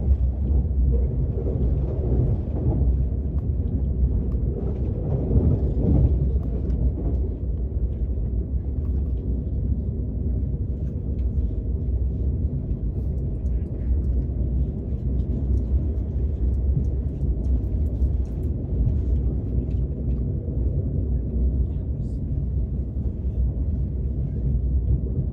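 Steady low rumble of a KTX high-speed train running, heard from inside the passenger car, with faint voices in the background a few seconds in.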